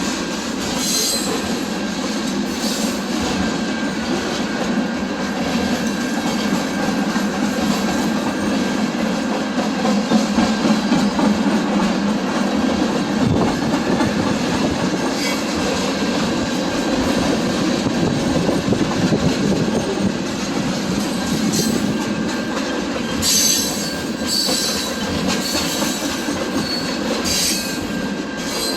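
A train rolling past, a steady rumble of wheels on rails with some clickety-clack, and short high-pitched wheel squeals near the start and again near the end.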